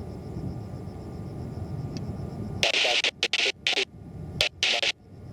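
A low, steady rumble. About two and a half seconds in, loud static hiss from an air traffic control radio feed starts, cutting in and out in short bursts.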